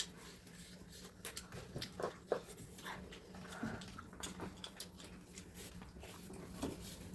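People eating a meal: irregular small clicks and chewing sounds, over a faint steady hum.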